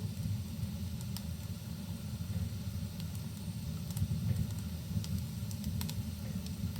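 Fireplace fire crackling, with a few sharp pops scattered over a steady deep rumble.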